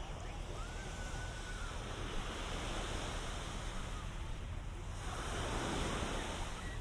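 Ocean surf washing onto a sandy beach, a steady wash of noise that swells louder as a wave rushes in about five seconds in.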